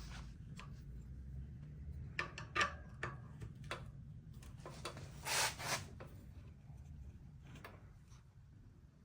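Faint scattered clicks and rubbing from parts being handled, with a short scraping rustle about five seconds in.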